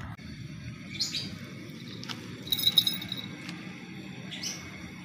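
Small birds chirping: a few short, high calls about a second in, a quick cluster halfway through and another near the end, over a steady low background hum.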